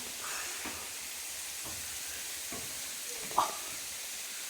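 Steady rushing hiss of a waterfall, with a few scattered knocks, the loudest about three and a half seconds in.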